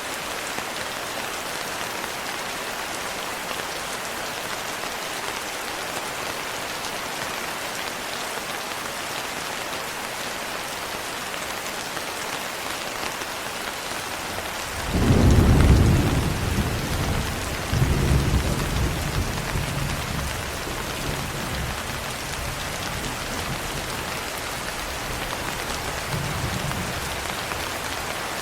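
Steady rain with a rolling thunderclap about halfway through: a sudden deep rumble, a second swell a few seconds later, then a slow fade back into the rain.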